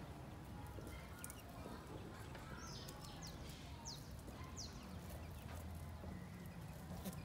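Faint outdoor ambience: a steady low rumble with a few short, high, falling bird chirps in the middle.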